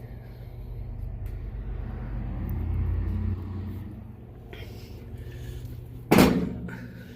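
Steady low hum of running machinery, with one loud knock about six seconds in.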